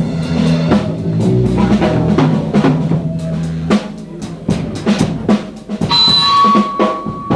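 Live blues band music led by a drum kit, with kick, snare and rimshots. Sustained low notes sound with the drums for the first few seconds and then drop out, leaving mostly drums, and a held high note comes in near the end.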